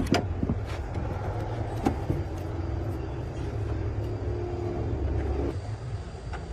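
An engine running with a low, steady rumble, with a few sharp knocks near the start and one about two seconds in.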